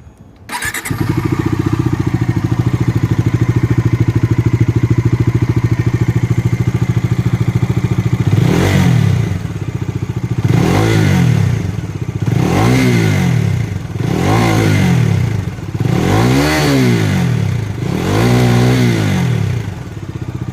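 Bajaj Dominar 250 motorcycle's single-cylinder engine, with its stock exhaust, starting up about half a second in and idling steadily, then revved in six blips about two seconds apart, each rising and falling back to idle.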